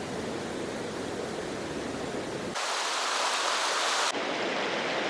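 Rushing water of a mountain stream, a steady hiss that changes abruptly twice: about halfway through it turns thin and hissy with the low rumble gone, and about a second and a half later it shifts again.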